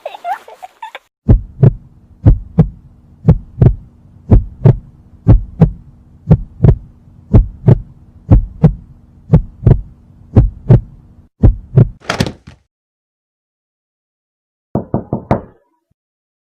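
Heartbeat sound effect: paired lub-dub thuds, about one pair a second, over a faint steady hum for roughly ten seconds. A brief sharp hissing burst follows, then a few quick clicks near the end.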